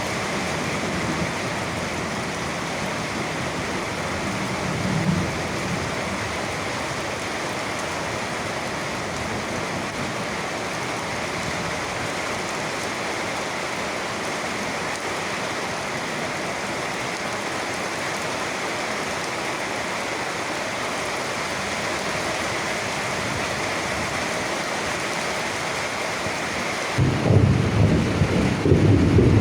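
Steady rain falling, an even hiss, with a short low rumble of thunder about five seconds in and a louder roll of thunder starting near the end.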